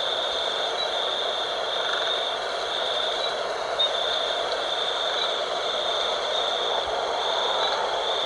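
Night wind blowing steadily, with a high, shrill insect chorus that pulses about once a second above it.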